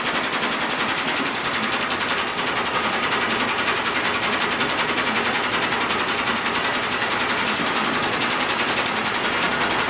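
Washing machine running with a fast, steady rattle that does not let up.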